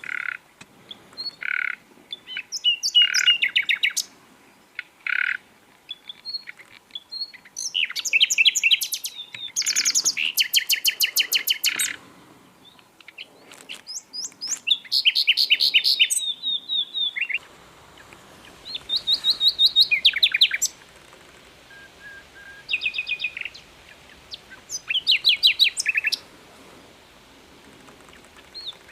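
Sikatan londo flycatcher singing: a series of rapid trilled phrases of quick, repeated high notes, each lasting a second or two, separated by short pauses.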